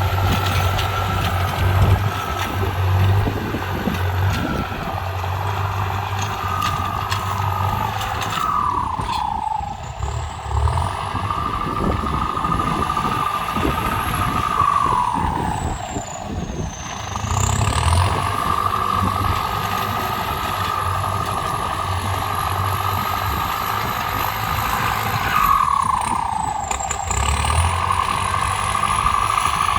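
A tractor engine running under varying load. Its pitch sags and recovers three times, with a high whine rising and falling with the revs.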